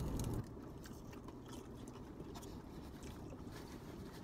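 Faint chewing of lettuce salad, with scattered light clicks of plastic forks against plastic bowls and a sharper click near the end, over a low background hum.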